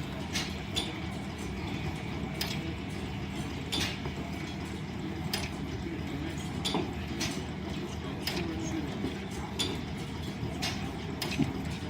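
Line-shaft driven wood lathe and its overhead shafting running with a steady hum, with sharp clicks about every second or so.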